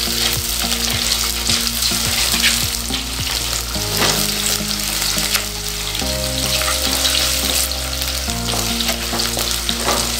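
Shallots and green chillies sizzling in hot oil in a clay pot while a spatula stirs them, with short scrapes of the spatula against the pot: the onions are being sautéed until soft.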